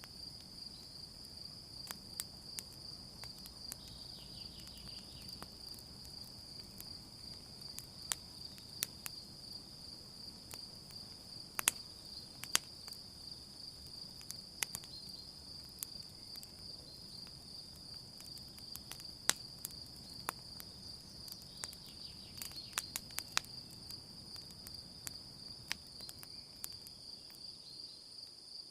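Campfire crackling with irregular sharp pops over a steady high chirring of crickets.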